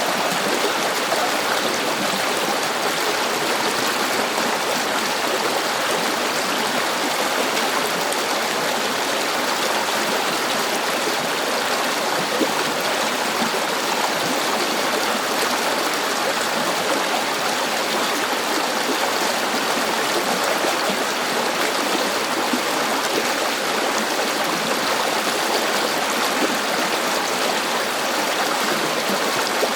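River water flowing and babbling in a steady rush, with no breaks or changes.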